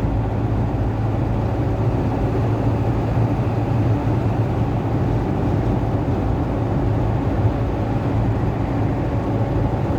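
Steady road and engine noise inside the cabin of a car driving at speed, with a constant low hum.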